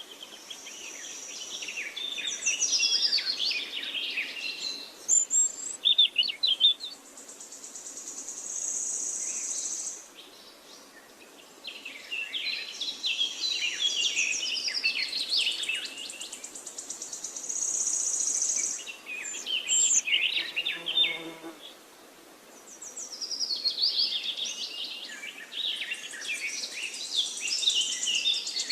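Songbirds singing: bursts of quick chirps and warbled phrases that come back about every ten seconds, with a high, thin buzzing trill held for a few seconds at a time between them.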